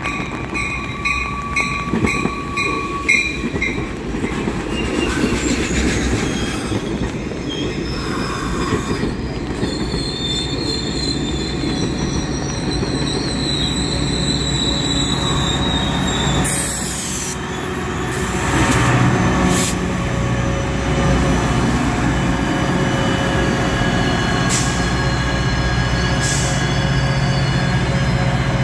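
Caltrain bilevel gallery cars running past with their steel wheels squealing on the rails. About two thirds of the way in this gives way to the steady low rumble of a Caltrain EMD F40PH diesel locomotive approaching.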